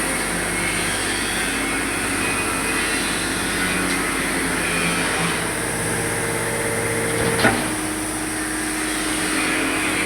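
Press machine running with a steady hum while bending a metal plate. There is one sharp bang about seven and a half seconds in, after which the hum changes pitch.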